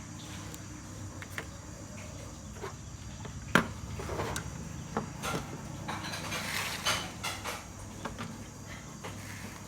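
Scattered clicks, taps and knocks of small hard objects being handled, over a steady low hum; one sharp click about a third of the way in is the loudest.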